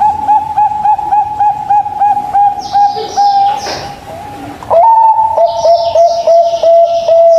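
Zebra dove (perkutut) cooing: a fast run of short repeated coos, about five a second, that ends in a longer held note. After a short pause a louder second run begins with a rising note. Fainter high chirps of small birds sound over the cooing.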